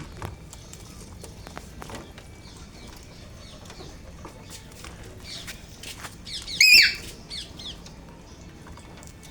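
Alexandrine parakeet calling: a few short chirps, then one loud, harsh squawk about two-thirds of the way in.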